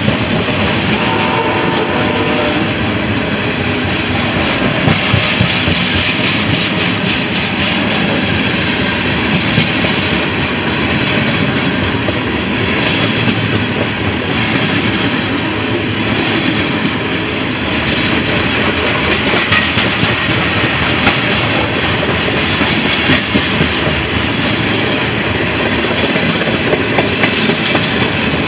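CSX freight train of covered hopper cars rolling past close by: steel wheels running on the rails in a steady rumble, with rapid clickety-clack as wheels cross rail joints. A thin high-pitched squeal joins in near the end.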